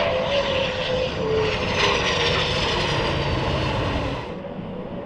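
Hongdu L-15E jet trainers passing by with a loud jet roar and a high whine that falls in pitch. The sound drops away sharply a little after four seconds in.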